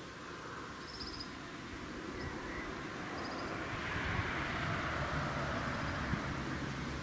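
A passenger train coming near, its rumble and wheel noise growing steadily louder and loudest about two-thirds of the way through, with a low hum joining in. Birds chirp briefly in the first few seconds.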